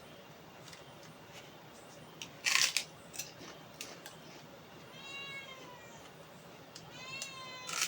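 A domestic cat meowing twice, begging for food: a longer falling meow about five seconds in and a shorter one near the end. About two and a half seconds in there is a brief loud crackle.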